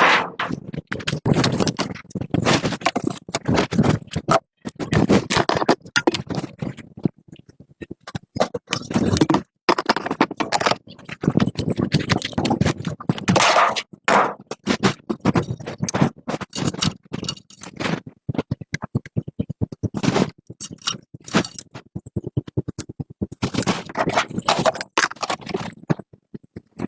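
Repeated scraping on a hard surface in quick, uneven strokes with short pauses, the sound of hand tools working over a part.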